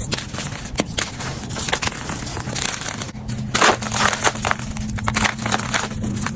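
Gym chalk being crushed and crumbled, a dense run of crunching crackles with a louder cluster of crunches about three and a half seconds in, over a faint steady low hum.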